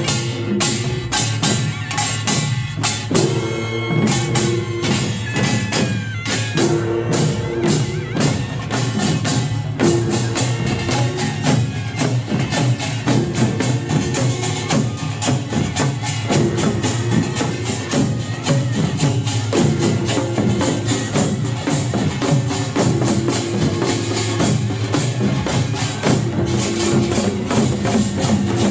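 Korean pungmul percussion band playing a fast, dense rhythm: kkwaenggwari small gongs, janggu hourglass drums, buk barrel drums and jing gongs struck together, with short held tones recurring in phrases over the beating.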